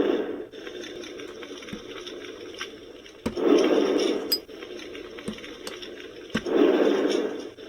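Takara Tomy FireWood Home toy campfire playing a crackling fire sound: scattered sharp pops and clicks, with a rush of noise about a second long roughly every three seconds, three times in all.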